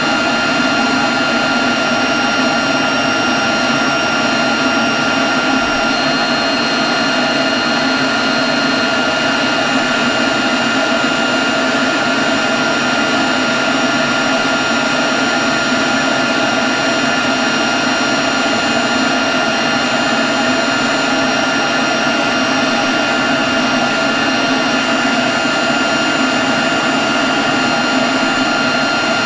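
Leaf blower running steadily at a constant speed: a rushing blast of air with a steady high fan whine over it.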